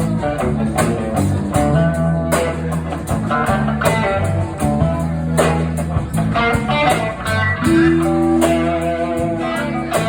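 A blues band playing: electric guitar lines over a sustained bass line and a steady drum beat.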